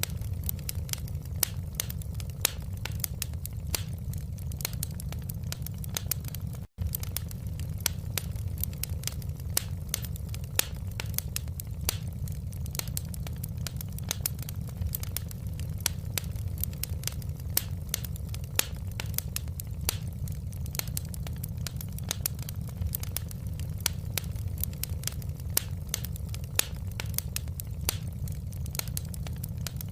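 Wood fire in a fireplace crackling, with many small irregular pops over a low steady rumble. There is a split-second dropout about seven seconds in.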